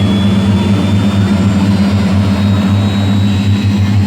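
Aircraft engines running in a steady loud drone, with a thin high whine that creeps slowly upward in pitch.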